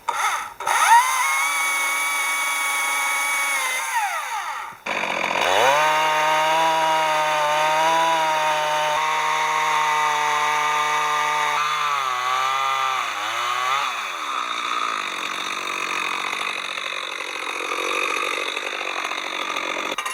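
Two-stroke chainsaw running: held at a high steady pitch for a few seconds, briefly cut back, then run again at a lower steady pitch. The pitch wavers, then winds down about 14 seconds in, and a rushing noise carries on after.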